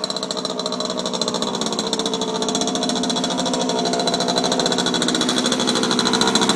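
Mini bike chopper's small petrol engine running steadily with a fast, even firing beat, growing gradually louder.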